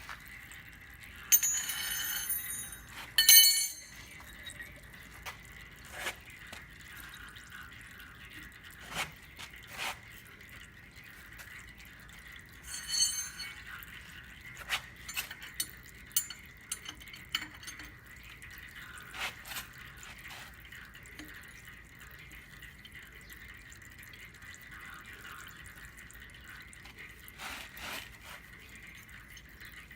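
Metal hand tools clinking and clanking as wrenches are picked up and worked on hydraulic line fittings. A few loud, ringing clanks come in the first few seconds and another about 13 seconds in, with scattered light ticks and taps between them.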